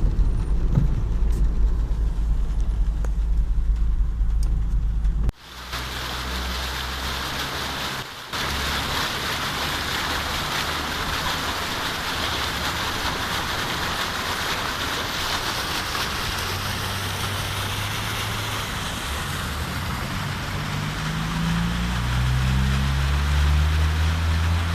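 A car on a rain-soaked road. A low engine rumble for about five seconds gives way abruptly to a steady hiss of rain and wet tyres, and near the end the engine note rises in steps as it speeds up.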